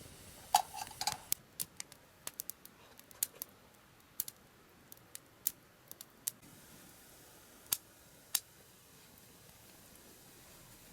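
A series of sharp, irregular clicks and ticks, loudest in a cluster about half a second in that includes a short ringing clink.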